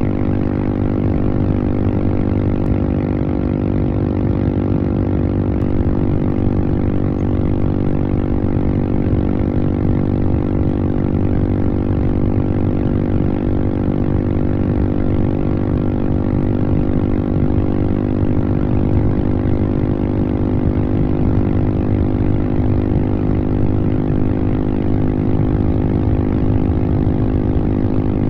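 Royal Enfield Himalayan's single-cylinder engine running at steady high revs under full throttle on a top-speed run, its exhaust note holding one constant pitch.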